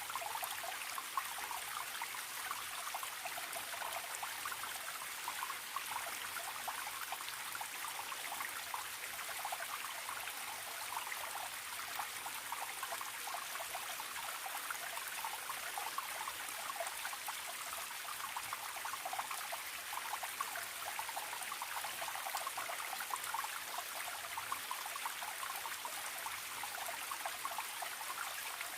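Small forest stream trickling and babbling steadily over rocks.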